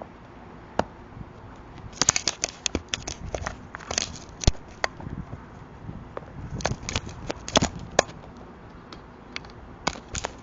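A crow's beak pecking and picking at the plastic housing of an Arlo security camera, right against its microphone: irregular sharp taps and clicks, in clusters about two seconds in and again around seven to eight seconds in, with a single loudest knock around four and a half seconds in.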